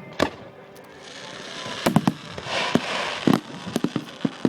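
Fireworks going off: sharp bangs at irregular intervals, with a spell of dense crackling through the middle.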